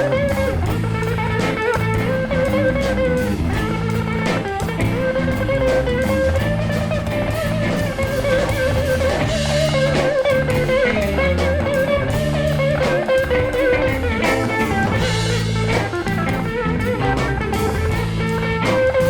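A live band playing an instrumental passage with no singing: a bluesy rock groove of electric guitar over bass and drum kit, with a wavering lead line held above a steady beat.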